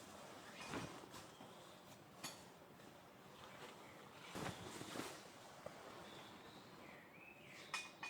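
Quiet outdoor ambience with a few soft clicks and knocks, and a bird chirping briefly near the end.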